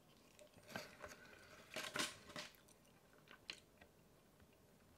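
A person chewing a mouthful of loaded nachos close to the microphone, with a few crisp tortilla-chip crunches, the loudest about two seconds in, then softer chewing.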